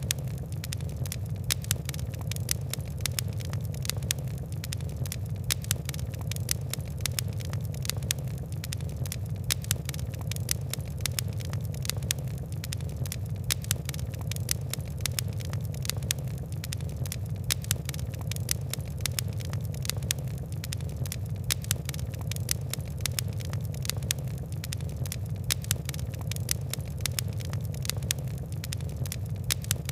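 Fire crackling steadily: many small, sharp, irregular pops over a low, steady rumble of flames.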